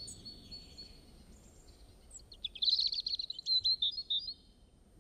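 Songbird calling: a faint run of repeated high notes, then about two seconds of loud, rapid chirping and trilling near the middle.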